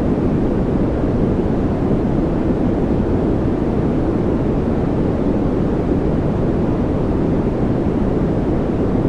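Steady white-noise track for focus or sleep: an even, deep rumbling hiss with no rhythm or change, most of its weight low and only a little hiss on top.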